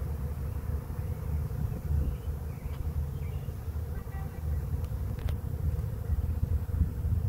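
Honeybee swarm buzzing steadily as the bees stream into a swarm trap, over a low rumble.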